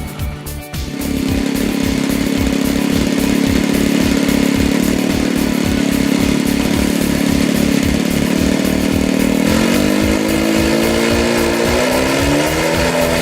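A model airplane's small piston engine running with a steady buzz, rising in pitch over the last few seconds as it is throttled up, over background music with a steady beat.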